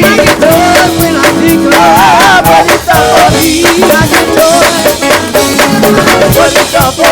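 Live gospel band playing: a drum kit keeping a quick, steady beat under sustained keyboard chords, with a wavering melody line with vibrato over the top.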